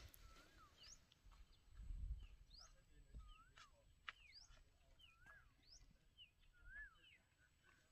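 Faint, repeated bird calls: quick high chirps that sweep upward, mixed with short arched whistled notes. A brief low rumble comes about two seconds in.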